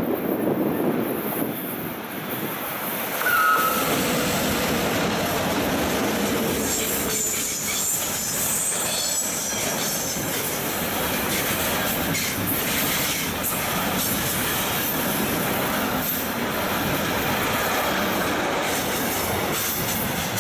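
Long electric-hauled freight train of hooded wagons passing close by on a curve, wheels rumbling and clicking over the rails. Thin, high wheel squeal rises from the curve about three seconds in and again a few seconds later.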